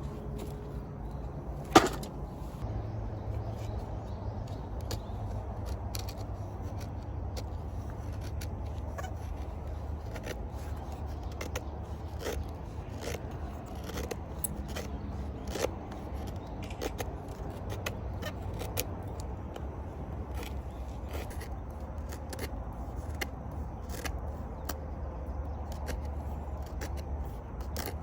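Wood campfire crackling: irregular sharp pops and snaps, one loud snap about two seconds in, over a low steady rumble.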